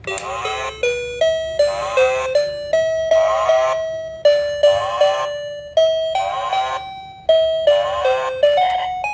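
Electronic toy playing a tinny, chiming melody of single notes, each changing every few tenths of a second, with short bursts of quick warbling electronic sound effects between phrases.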